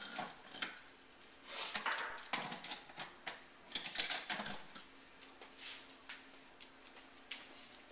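Irregular clicking and clattering of toy train pieces being handled and fitted together, in uneven bursts.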